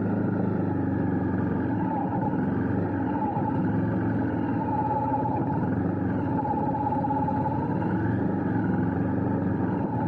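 Honda CRF250 Rally's single-cylinder four-stroke engine running steadily as the motorcycle is ridden at low speed.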